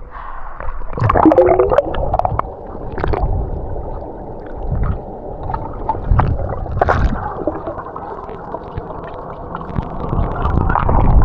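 Muffled underwater sound of snorkelling, heard with the camera below the surface: water gurgling and bubbling, with scattered crackles.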